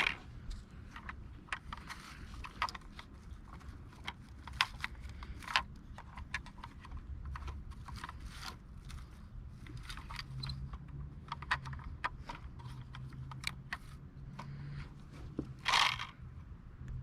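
Scattered light clicks and small scrapes, as of a model garbage truck and its parts being handled, with a longer scrape near the end over a low steady hum.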